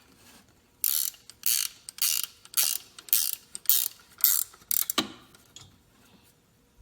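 Socket ratchet being cranked in about eight quick rasping strokes, roughly two a second, driving a 13 mm bolt, followed by one sharp knock.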